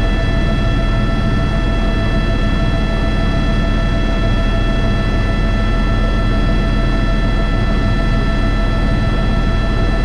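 Airbus H125 (AS350 B3) single-engine helicopter heard from inside the cockpit in steady flight. Its turbine and rotor make a continuous low rumble, under several constant high whining tones.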